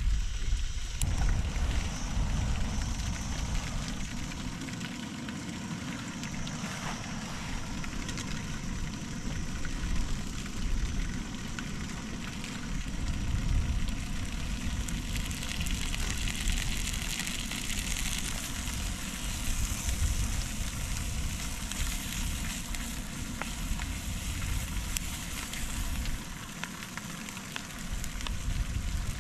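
Food sizzling and crackling as it cooks outdoors, with a low, uneven wind rumble on the microphone.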